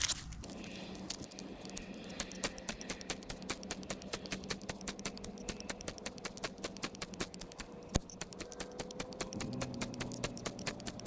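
Fire striker being struck again and again to throw sparks: a fast run of sharp clicks, several a second, with one louder strike about eight seconds in.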